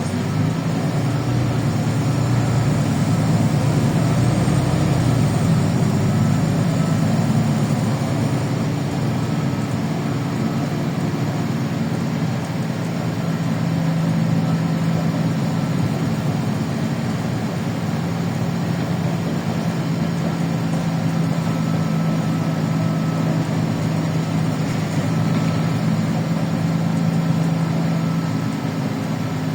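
LiAZ 5292.65 city bus running, heard as a continuous engine and drivetrain drone from on board. It changes pitch over the first few seconds, then holds a steady tone.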